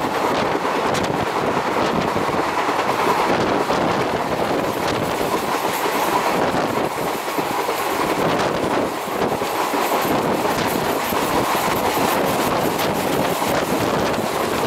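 Passenger train coach running at speed, wheels clattering on the rails with a steady rush of air, heard from the coach's open door or window.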